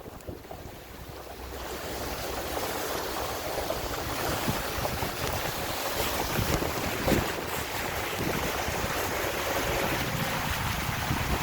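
Tropical-storm wind blowing hard and buffeting the microphone. It rises over the first couple of seconds into a steady rush with occasional thumps.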